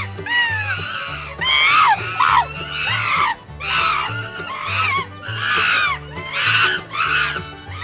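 Repeated high-pitched animal squeals, each rising and falling, over background music with a steady bass line.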